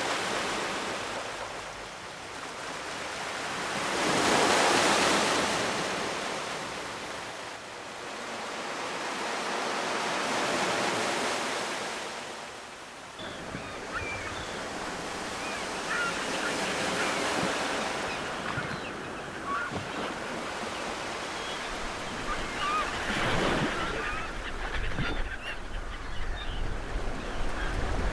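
Ocean surf: waves breaking and washing ashore in slow swells, the loudest about four seconds in. From about halfway through, short bird calls sound over the surf.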